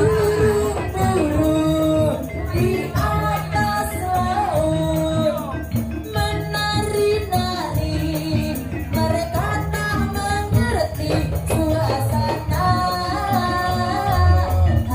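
Live gajah-gajahan troupe music: a singer's melody over a steady, loud band rhythm with percussion.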